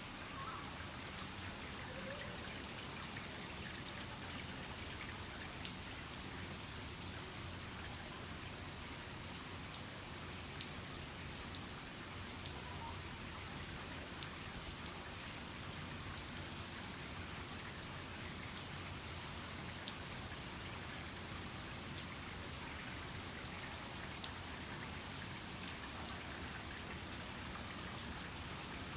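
Heavy rain falling steadily, with a few sharp ticks scattered through it.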